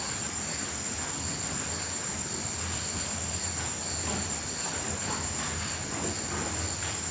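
Crickets trilling: a steady, high-pitched, unbroken trill over a soft background hiss.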